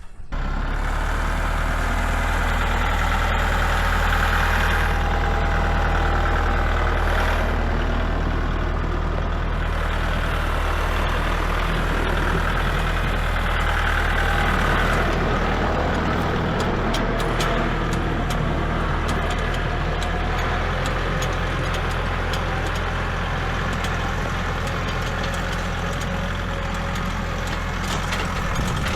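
An engine running steadily at a constant speed with a deep, even hum. Faint clicks and ticks come in over the second half.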